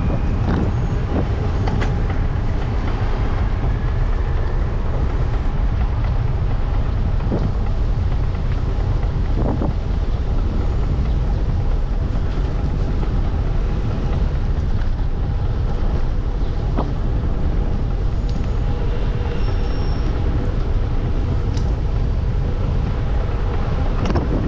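Steady low rumble of a moving vehicle with wind buffeting the microphone, and a few faint clicks scattered through it.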